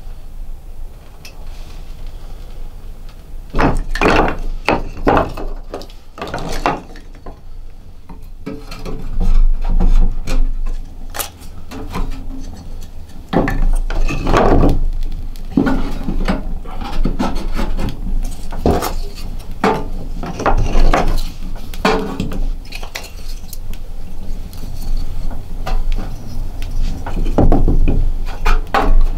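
Irregular knocks, scrapes and clinks of wooden and metal objects being handled, over a low steady rumble.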